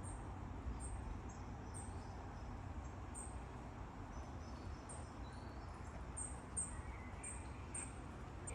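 Small birds calling outdoors: many short, high chirps repeated irregularly, with a few lower notes joining in the second half, over a steady low rumble.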